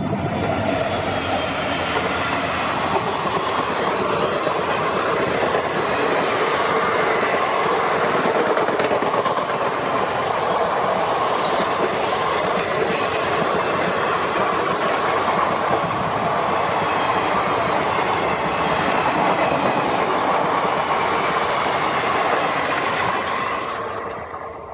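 An empty ICF passenger rake running past at speed behind a WDG4 diesel locomotive. The locomotives pass at the start, then the coaches follow with continuous wheel-on-rail noise and clickety-clack over the rail joints. The sound fades away near the end as the last coach recedes.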